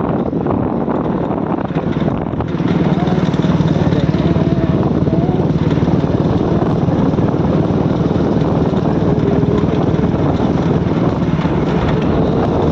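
Motorcycle engine running steadily on the move, with road and wind noise, growing louder about two and a half seconds in.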